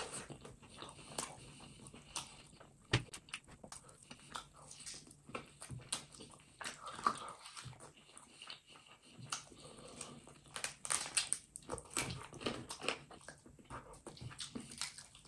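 Wet chewing and lip-smacking of a person eating spicy duck curry by hand and gnawing meat off a duck bone: irregular sharp smacks and clicks, thicker in the later part.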